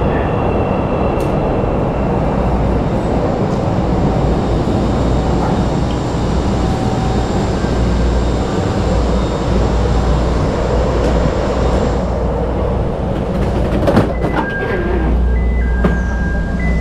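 CTA Pink Line rapid-transit train running, heard from inside the car: a steady rumble of wheels on the track. Near the end come a few clicks and faint high tones.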